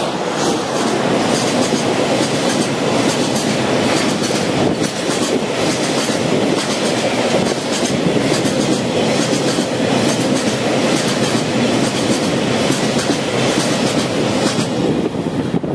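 Freight train passing close by, its wagons' wheels clattering steadily over the rail joints.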